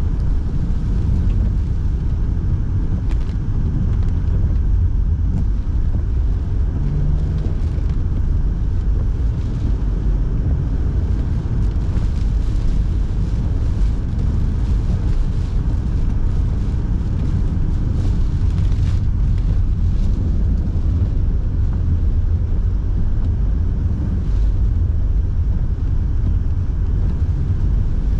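Steady low rumble of a car on the move, heard from inside the cabin, with the heater fan blowing.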